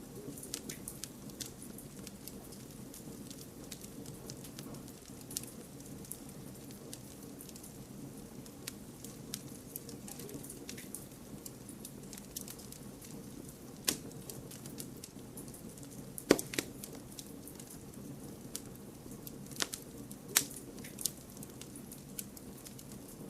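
Wood campfire crackling: irregular sharp pops and snaps over a steady low rush of the burning fire. The loudest pops come about 14, 16 and 20 seconds in.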